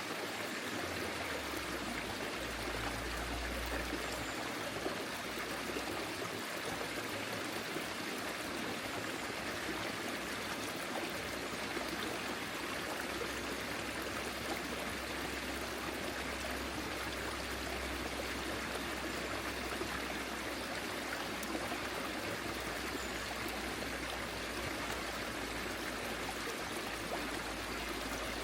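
Small forest stream flowing steadily, its water rushing and trickling over stones in an even, unbroken wash.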